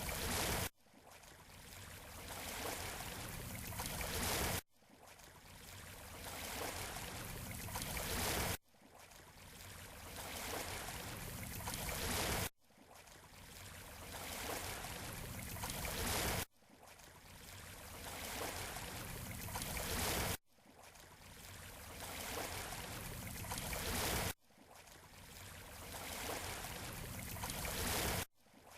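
Ocean waves washing on a beach shoreline. Each swell of surf rises over about four seconds and then cuts off abruptly. The same swell repeats about every four seconds, like a short recording played in a loop.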